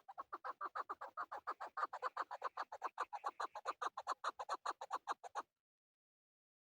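Male chukar partridge calling: a fast run of short chuck notes, about eight a second, that stops abruptly about five and a half seconds in.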